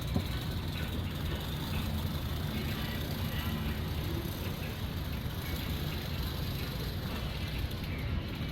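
Steady low rumble of a vehicle engine with an even hiss over it.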